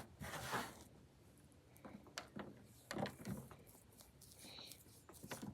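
Faint, irregular squishing and sticky peeling as a baking soda and dish soap slime is kneaded and squeezed by hand; the mixture is still sticky.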